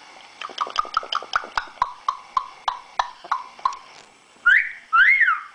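Yellow-naped Amazon parrot making a quick run of about fifteen sharp clicks, some four a second, then two loud whistled calls, each rising and falling in pitch, near the end.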